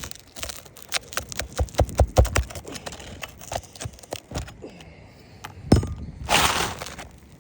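Asphalt shingles being pried up with a roof snake tool: a quick run of sharp clicks and cracks as the nails pull through the brittle shingle. About five and a half seconds in comes one louder snap, then a short scraping tear.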